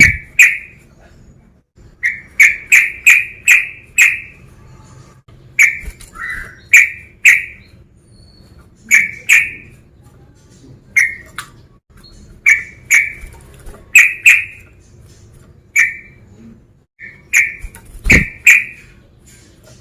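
Yellow-vented bulbul (trucukan) calling: loud, short chirping notes in quick runs of two to five, repeated with short pauses. A dull thump near the end.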